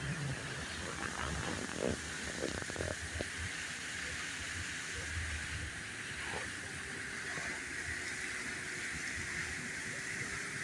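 Steady hiss of fountain water spraying and splashing, with a few short knocks in the first three seconds.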